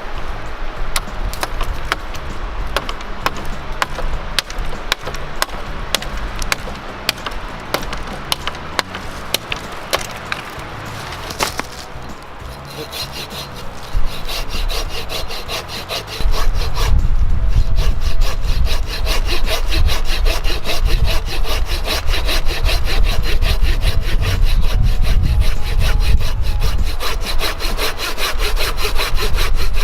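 Hand pruning saw (a Samurai Kishi folding saw) cutting firewood. The first half holds irregular clicks and scrapes; about halfway through, louder, fast and steady back-and-forth sawing strokes start.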